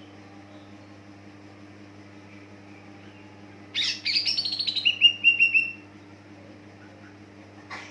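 Green leafbird (cucak ijo) singing one burst of about two seconds: a quick run of notes stepping down in pitch. A single short note follows near the end, over a steady low hum.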